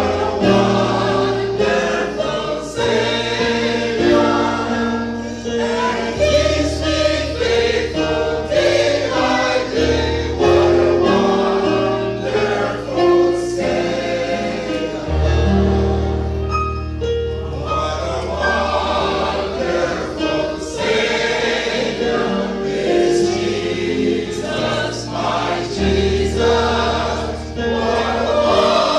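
A choir singing a gospel hymn with instrumental accompaniment and a sustained bass line.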